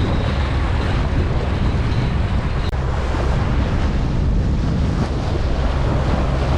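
Wind buffeting the microphone over the wash of water along a sailboat under way: a steady, heavy rush with a low rumble.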